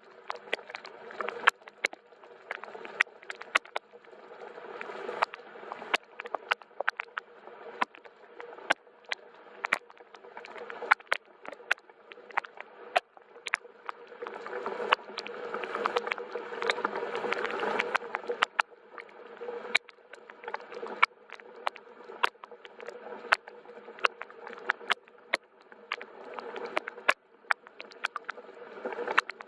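Soft rain: a steady hiss with many sharp drops ticking several times a second, swelling a little near the middle.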